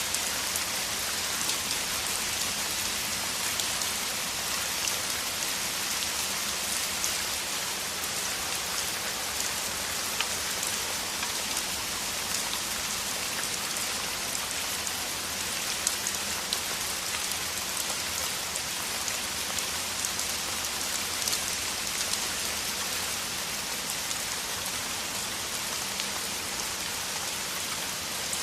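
Steady heavy rain falling, a dense hiss with many small drop ticks on top.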